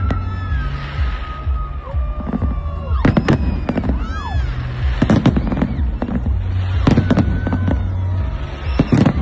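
Fireworks going off: clusters of sharp bangs from bursting shells, with whistling tones between them that hold and then glide in pitch.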